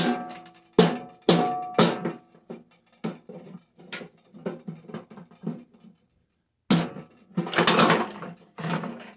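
Hammer blows on metal, pounding press-fit parts out of a microwave's small fan motor. There are four hard strikes with a short metallic ring in the first two seconds, then lighter taps, a pause, and a rapid flurry of blows near the end.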